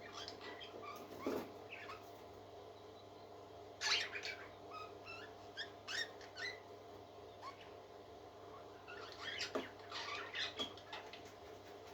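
Parrot chick peeping with faint high squeaks in a few short clusters, mixed with light scratching clicks.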